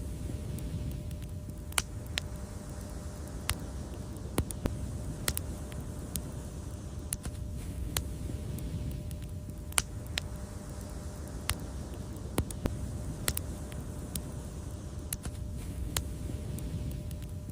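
Wood fire crackling: sharp, irregular pops and snaps, roughly one or two a second, over a steady low rumble of burning flames.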